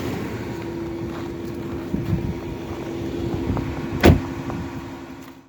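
Dodge Journey idling after a cold start, a steady hum with its heater fan running. A single sharp thump comes about four seconds in, and the sound fades out at the end.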